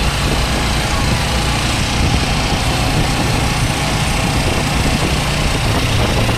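Motorcycle engine running steadily while riding, under an even rush of wind and road noise.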